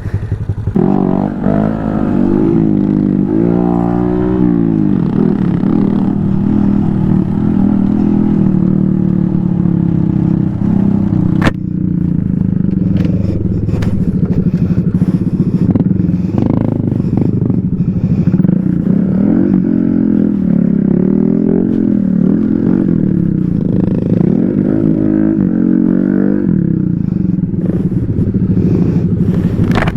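Engine of a small off-road motorcycle or ATV running under way, its revs rising and falling again and again with the throttle, over steady rattling, with one sharp click about eleven seconds in.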